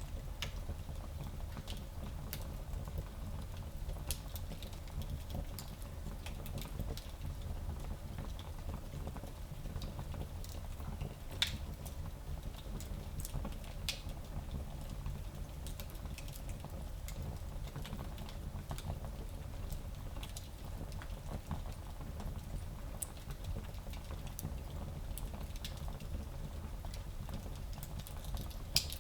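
Wood fire burning in a small fireplace, with a steady low rumble and scattered crackles and pops. The sharpest pops come about a third of the way in and just before the end.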